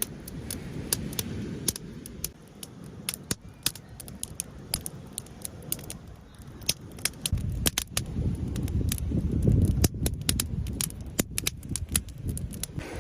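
A run of irregular sharp clicks and crackles over a low rumble that swells in the second half.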